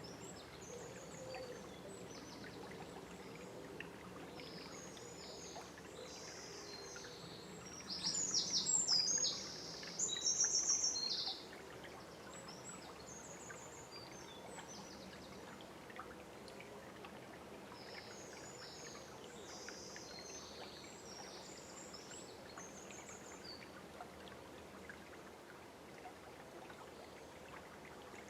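A river flowing with a steady rush, with songbirds singing over it. About eight seconds in, a nearby bird gives two loud phrases of rapid, high repeated notes, each about a second and a half long.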